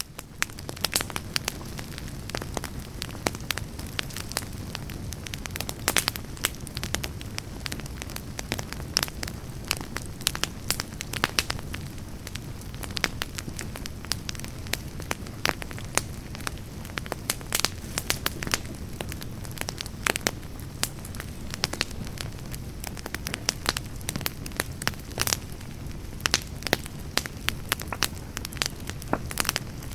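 Wood campfire burning, with a steady low rush of flames and frequent sharp, irregular pops and crackles from the burning firewood.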